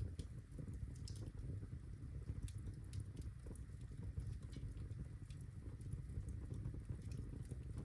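Birchwood fire crackling in a fireplace: irregular small snaps and pops over a low steady rumble of the flames.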